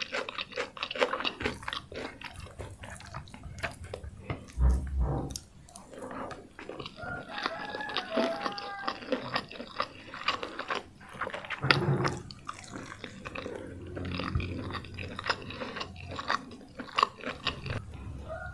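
Close-miked chewing and crunching of crispy fried chicken with rice, full of quick wet mouth clicks. There are a couple of dull low thumps, about five and twelve seconds in.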